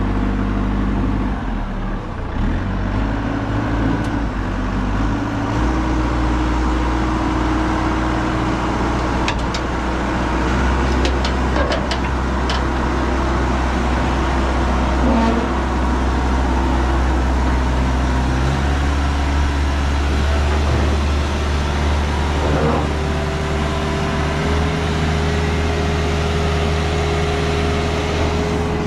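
Telehandler diesel engine running under load, its engine speed stepping up and down a few times, with a few sharp metallic clicks partway through.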